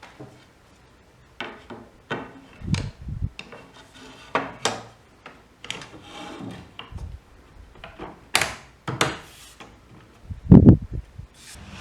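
Wooden boards and parts being handled and set down: irregular knocks, clicks and scrapes, with a heavier thump near the end.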